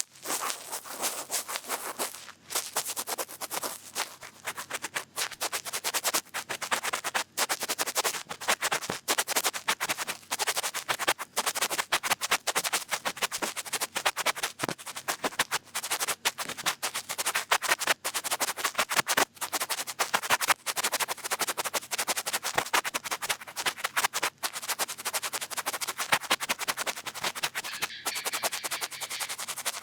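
Cotton bud rubbing and scratching right against the microphone in ASMR ear cleaning: a dense, fast run of scratchy strokes with brief pauses.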